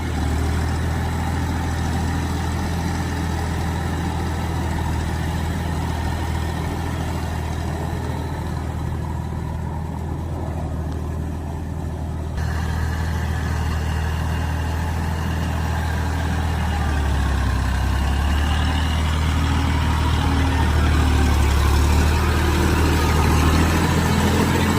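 Massey Ferguson tractor's diesel engine running steadily with a low drone. The sound changes abruptly about halfway through, and the engine grows louder in the later part.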